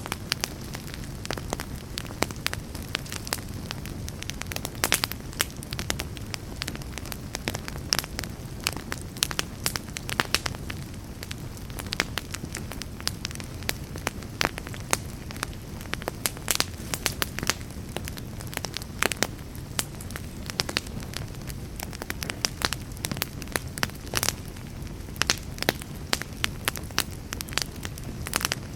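Campfire burning: a steady low rumble of flames with frequent irregular crackles and sharp pops.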